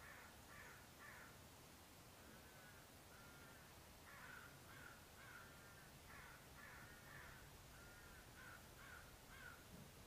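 Faint bird calls: short calls repeated about two a second, coming in several runs with brief pauses between them.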